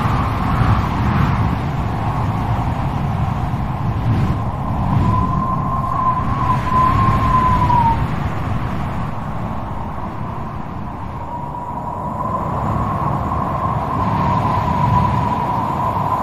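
Strong wind blowing in gusts, with a rumble and a wavering, howling whistle that rises and falls. The whistle sounds from about five to eight seconds in, then again from about eleven seconds to the end.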